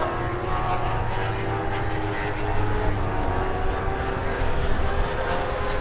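Superbike racing motorcycle engines running at high revs on the circuit, a steady multi-tone drone with slow small shifts in pitch.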